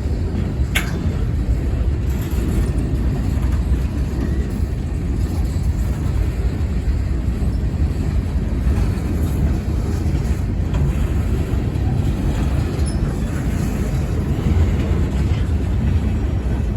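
CSX local freight train rolling past, a steady low rumble.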